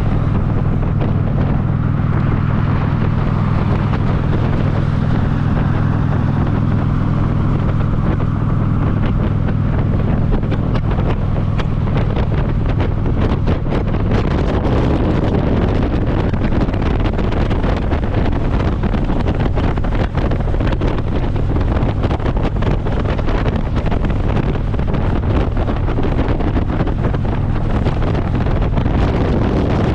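Harley-Davidson V-twin motorcycle engine running steadily at road speed, heavily buffeted by wind on the microphone. The engine drone is clearest in the first part, and the wind rush takes over from about halfway through.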